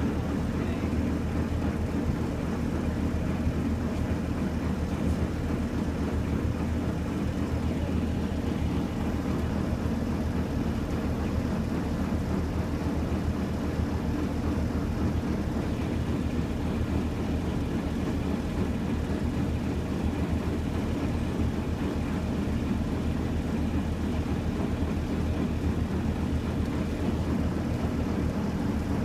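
Delivery truck's engine idling steadily while parked, an even low hum that does not change.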